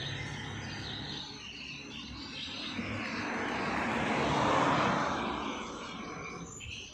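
An aircraft passing over: its engine noise swells to a peak about four to five seconds in, then fades. Faint bird chirps sound behind it.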